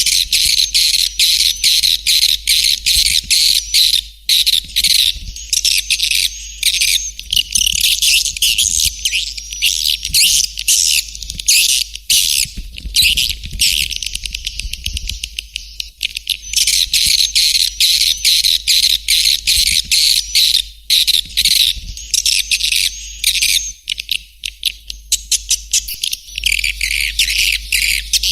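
Recorded swiftlet call track: dense, rapid, high chirping and twittering of edible-nest swiftlets, with a few short dips, over a steady low hum. It is the kind of lure call that is played at a swiftlet house to draw the birds in to roost and nest.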